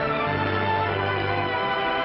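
Orchestral film score with strings playing held notes under a low bass note.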